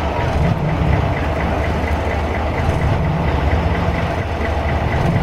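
Antique truck engines running steadily at low speed as the trucks crawl along, with a faint regular ticking over the low engine note.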